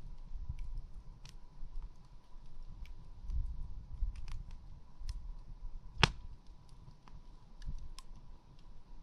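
Campfire crackling, wood snapping in irregular sharp clicks with one loud pop about six seconds in, over a low uneven rumble.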